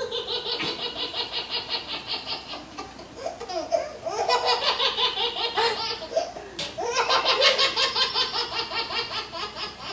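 Laughter used as a sound effect after a joke's punchline: rapid, high-pitched giggling laughter that swells louder about four seconds in and again about seven seconds in.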